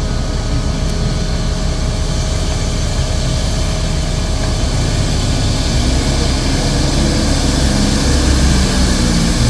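Heavy diesel engine noise running steadily, growing a little louder after about six seconds.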